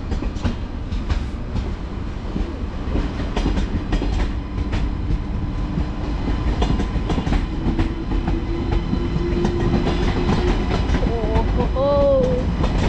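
Ouigo TGV Duplex double-deck high-speed train pulling out of the station past the camera: a steady rolling rumble with wheels clicking over rail joints, and a hum that rises slightly in pitch partway through. A short pitched sound that bends in pitch comes near the end.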